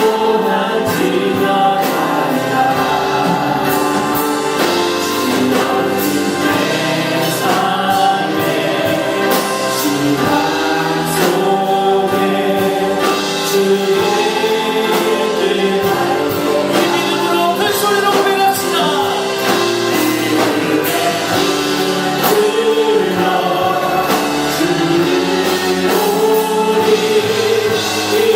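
Choir singing a Christian worship song with musical accompaniment, at a steady level throughout.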